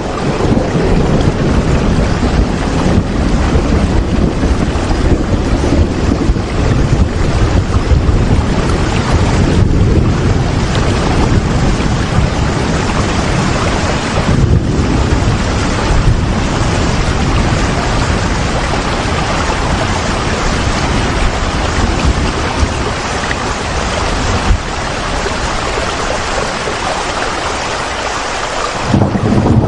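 Steady rain, a dense even hiss over a strong low rumble. The rumble eases for a few seconds near the end.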